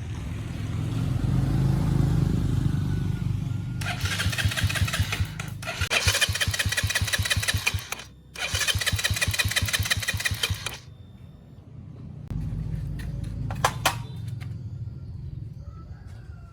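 Motorcycle engine starting and running. It gets much louder in stretches between about 4 and 11 seconds in, with short breaks, then settles to a lower running sound.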